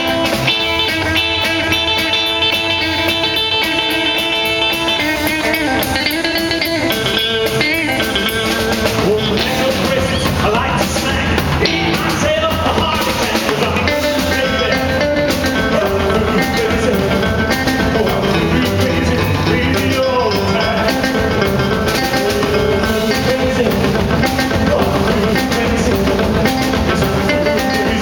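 Live rock and roll band playing: held electric guitar notes over drums, then a singer's vocal comes in about ten seconds in.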